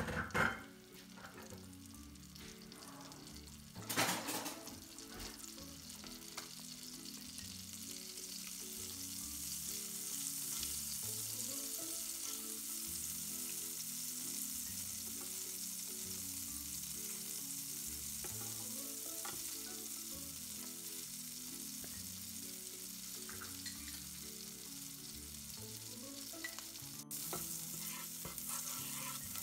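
Food sizzling in hot oil in a frying pan while it is stirred, with a utensil knocking sharply against the pan at the start and again about four seconds in. The sizzle grows louder and holds steady from about eight seconds on.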